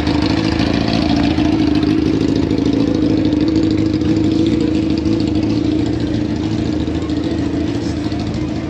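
A vehicle engine running steadily. It comes in suddenly just before this and eases off slightly over the last few seconds.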